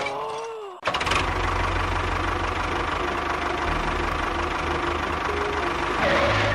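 An engine running steadily with a fast, even knocking putter, starting abruptly about a second in, in the sound of a small tractor.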